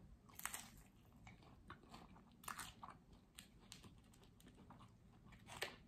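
Faint chewing of a bite of vegan chicken tender taco, with a few soft, scattered crunches.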